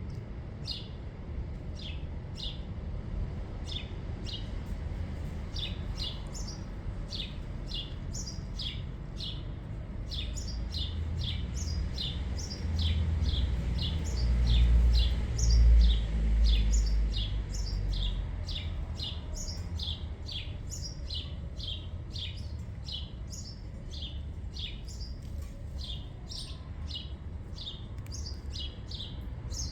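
Small birds chirping: many short, quick chirps that sweep downward in pitch, overlapping from several birds. A low rumble swells and fades around the middle.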